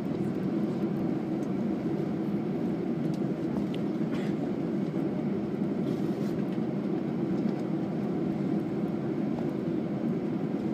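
Steady low rumble inside an Airbus A320's cabin on the ground after landing, with a faint click or two.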